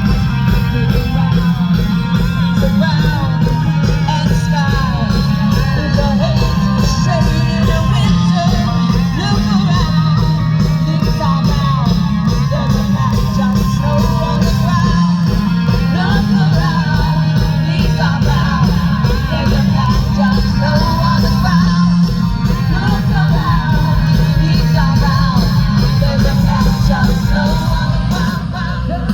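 Rock band playing live, loud, with a lead vocal over a steady, heavy bass.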